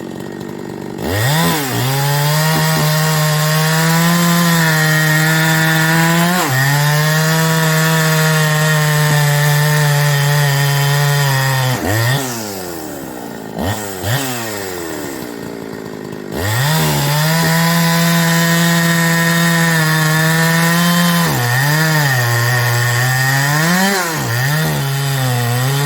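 Ported Farmertec 372XP-clone two-stroke chainsaw cutting ash firewood. It revs up and holds a high, steady pitch through a long cut, then drops back to idle with a couple of quick blips. It revs up for a second cut, its pitch dipping and recovering several times near the end.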